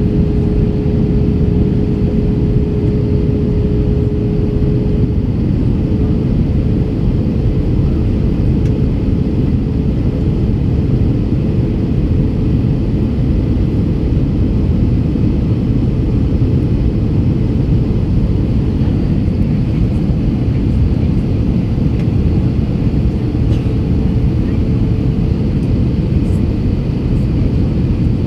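Steady jet engine and airflow noise heard inside the cabin of an Airbus A321 in flight. A steady hum rides on it for about the first five seconds, then fades.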